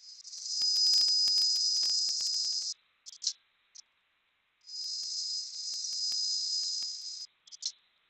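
Two long bursts of air hiss with a thin steady whistle, each about two and a half seconds and separated by a pause of about two seconds, with sharp clicks before, between and after them. The sound comes from the pneumatics of an automatic placket sewing machine.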